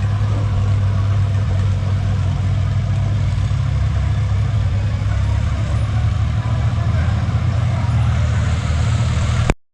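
Antique pulling tractor's engine running steadily at a low, even speed, then cutting off suddenly near the end.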